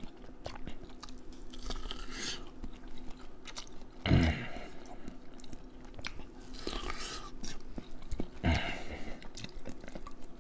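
Biting and chewing corn on the cob close to the microphone: a stream of small crunchy clicks, with louder moments about two, four, seven and eight and a half seconds in.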